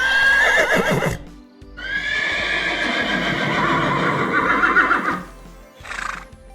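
A horse whinnying: a short call that rises sharply and then wavers, followed by a longer wavering whinny and a brief call near the end. Background music plays underneath.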